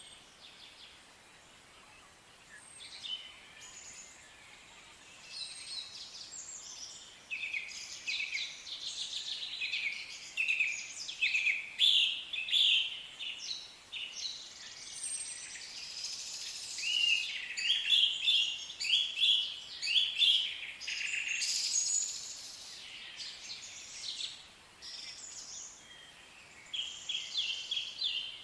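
Songbirds singing: many short chirps and trills, several birds overlapping, quieter for the first few seconds and again briefly a little before the end.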